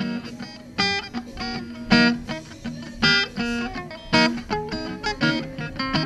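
Background guitar music: plucked and strummed chords, with a strong strum about once a second over a held low note.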